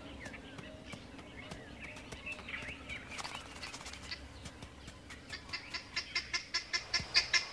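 Wild birds calling: scattered chirps and short gliding notes, then a fast run of sharp, repeated calls, several a second, building louder toward the end.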